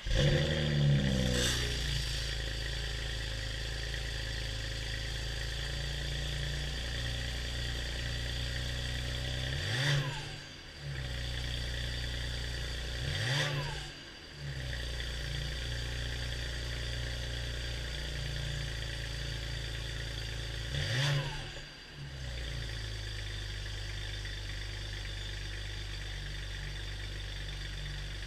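BMW 335i's N54 twin-turbo straight-six, fitted with downpipes and the stock exhaust, firing up on a cold start and settling into a high idle. Three short revs come about ten, thirteen and twenty-one seconds in, then it settles to a steady idle.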